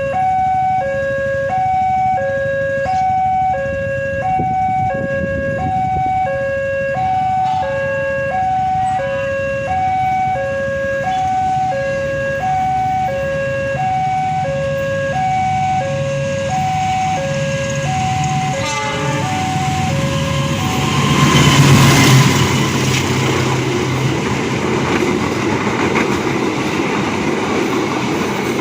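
Railway level-crossing warning alarm sounding a two-tone alternating chime, switching between a lower and a higher tone a bit more than once a second. About 21 seconds in the chime is drowned out as a train comes through the crossing, the rumble and rail noise loudest just after it arrives.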